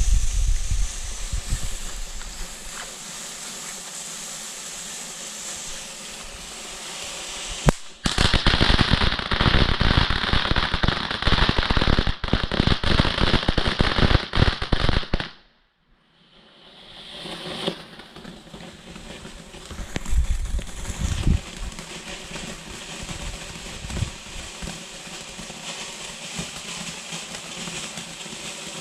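TNT Fireworks Ghost Fountain, a large ground fountain firework with 80 g of explosive content, burning with a loud rushing hiss. About eight seconds in there is a sharp bang, then a dense crackling spray for about seven seconds that cuts off suddenly. After a short gap, a quieter crackling carries on.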